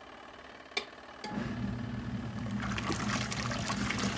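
A sharp click, then about a second in the portable washing machine's wash motor starts with a sudden steady hum, and water begins sloshing in the tub a little later as the agitator churns the rinse water.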